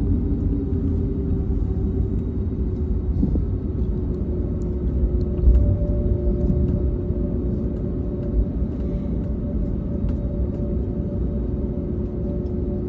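Inside the cabin of an Airbus A321neo airliner: a steady low rumble of the engines and airframe with a steady engine hum, a second, higher tone joining about halfway through. Two brief low bumps, one loud about five seconds in and a smaller one near eight seconds.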